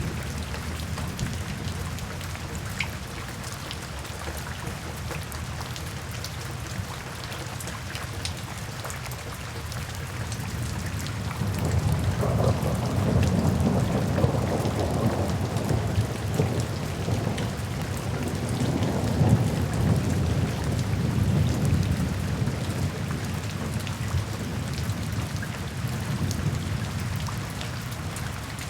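Steady rain with scattered individual drops, and a long roll of thunder that rumbles in about twelve seconds in, swells twice and dies away over roughly a dozen seconds.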